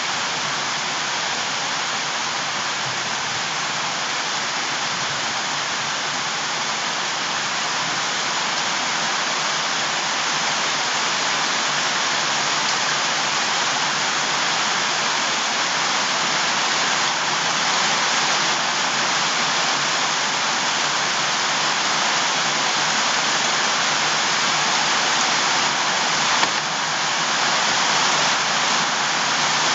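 Steady rushing of water, a dense even hiss that grows slightly louder in the second half, with one brief click near the end.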